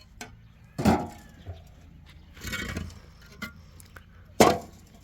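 Building work: two sharp knocks, one about a second in and a louder one near the end, with a short scraping sound between them, typical of boards and tools being handled while putting up a wooden platform.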